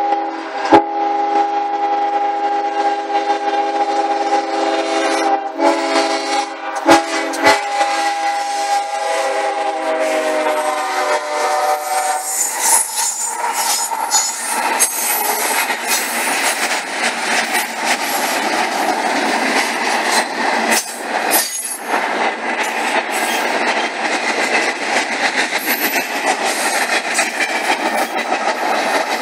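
CSX freight locomotive's air horn sounding a long chord, with a couple of brief breaks, as the train approaches the crossing. Its pitch drops as the locomotive passes, about 12 seconds in. The horn then gives way to the steady rush and clatter of the freight cars rolling by, with thin high squeals from the wheels.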